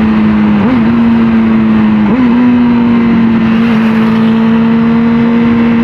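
Honda CBR600RR's inline-four engine running steadily under way, with two brief rises in pitch about a second and two seconds in, over a steady rushing hiss.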